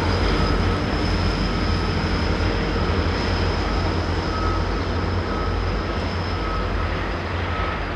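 Train running past with a steady low rumble and a thin high whine, easing slightly toward the end.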